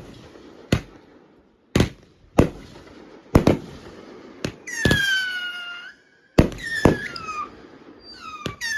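Fireworks going off: about nine sharp firecracker bangs at uneven intervals, with a crackling hiss between them. In the second half a high, slightly falling tone sounds three times, each lasting up to about a second.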